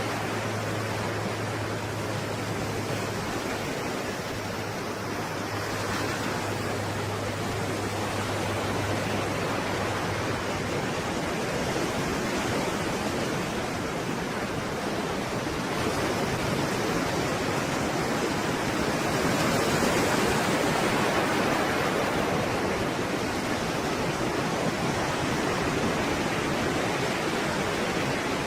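Stormy sea waves: a continuous rushing wash of surf, swelling louder about two-thirds of the way in.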